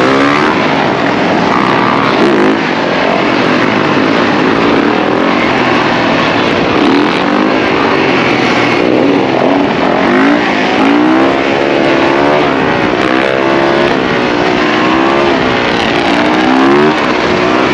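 Several dirt bike and ATV engines revving together in a pack, their pitch rising and falling over and over and overlapping, with the revving most pronounced in the second half.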